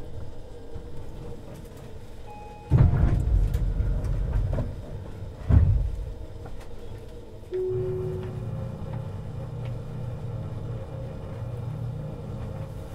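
Tobu 50090 series commuter train running, heard near the underfloor of a car: steady whining tones from the running gear, then a sudden loud rushing noise about three seconds in that lasts about two seconds, with a sharp burst near six seconds. From about seven and a half seconds in, a heavier steady low rumble with a new steady tone sets in.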